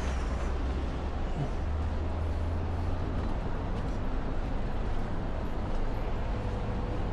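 Steady street traffic noise with a low rumble of passing vehicles.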